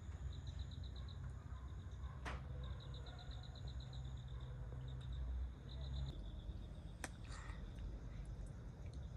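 An insect chirping in short trains of rapid high pulses, several times over. Underneath is a steady low rumble, and two sharp clicks stand out, one about two seconds in and one about seven seconds in.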